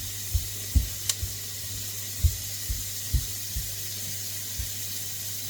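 Onions and other vegetables sizzling gently in a wok, a steady soft hiss as the salted vegetables sweat and soften. A few dull low knocks and one sharp click sound over it.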